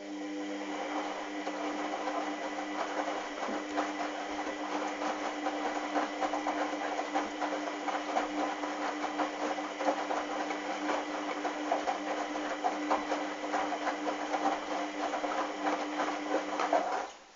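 Hoover washing machine's motor turning the drum during the wash, with a steady motor hum and the laundry and sudsy water sloshing and clattering inside. It starts suddenly and stops abruptly about 17 seconds in, one tumble of the wash cycle.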